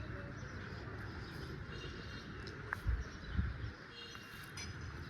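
Faint outdoor ambience with a few short, high bird chirps, and a couple of low rumbles near the middle.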